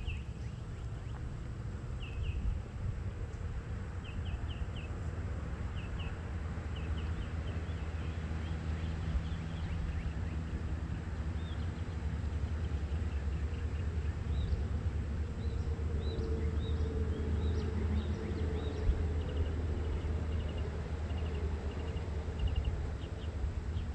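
Small birds chirping: short, high chirps in quick groups of two or three, repeating all through, over a steady low rumble.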